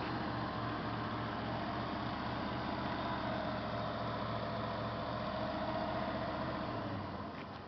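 Ford F-450 Super Duty's 460 (7.5 L) fuel-injected gas V8 running steadily, with a faint higher whine above it. The sound gets quieter about seven seconds in.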